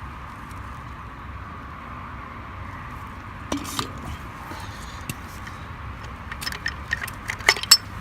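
Sharp clinks and taps of metal compressor parts being handled, a couple near the middle and a quick run of louder ones near the end, over a steady hum.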